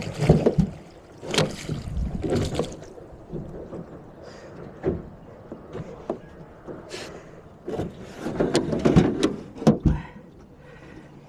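Irregular knocks and thumps against a small boat, in a busy cluster at the start and a louder one near the end.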